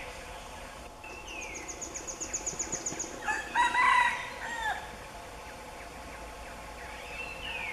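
A rooster crows once, about three seconds in, the loudest sound. Before it comes a rapid high trill of about nine ticks a second, and thin descending bird calls sound at the start and near the end.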